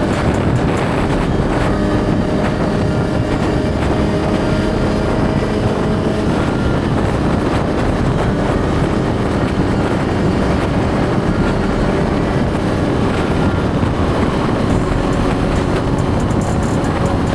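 Suzuki GSX-R1000's inline-four engine running at a steady speed while riding, under a constant rush of wind noise on the helmet-cam microphone.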